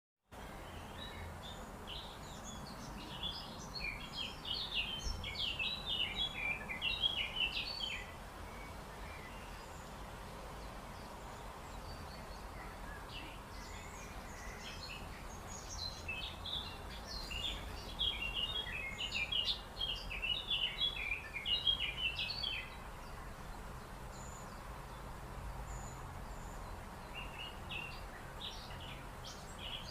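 Birdsong: three bursts of rapid, high chirping several seconds long, the last starting near the end, over a steady background hiss and low rumble.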